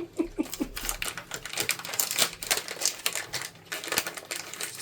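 Quick clicking and rustling of packaging being handled and opened, many small crinkles and taps in rapid succession.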